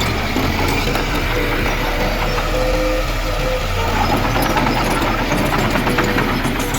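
Diesel engine of heavy earthmoving machinery running steadily, with rapid metallic clanking and rattling starting about four seconds in.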